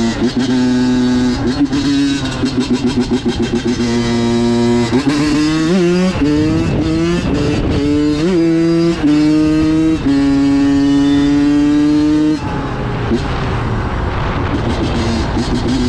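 Honda CR85 85cc two-stroke dirt bike engine riding under way, its note rising and dropping through the gears. The note pulses on and off the throttle for a couple of seconds, then climbs with short rises and dips before settling into a steady run. Near the end it turns rougher.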